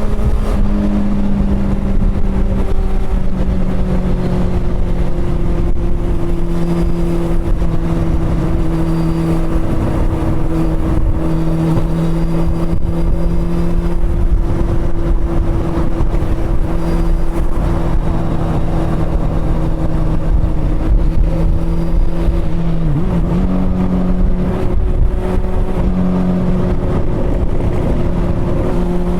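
Honda CB400 Super Four's inline-four engine pulling at a steady, fairly high speed under way, its pitch holding almost level, with a brief dip and wobble in pitch about three-quarters of the way through. Wind and road rumble run underneath.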